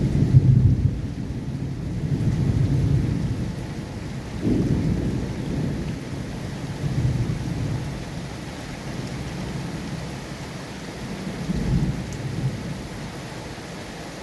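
Steady rain hissing under rolling rumbles of thunder that swell and fade several times, dying away toward the end.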